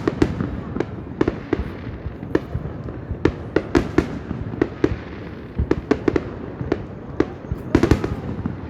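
Aerial fireworks bursting overhead: an irregular run of sharp bangs, a few every second, with a quick cluster of bursts near the end.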